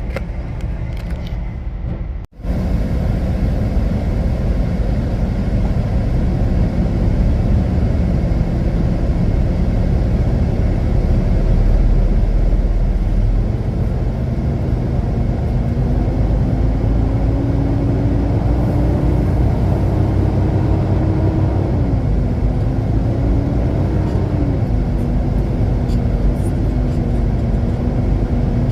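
Semi-truck engine and road rumble heard from inside the cab while driving. The engine note climbs slowly, then dips sharply twice near the end. The sound drops out briefly about two seconds in.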